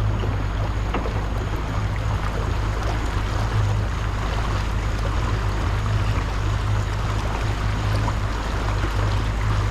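A small boat's motor running steadily under way: a continuous low hum with water and wind noise over it.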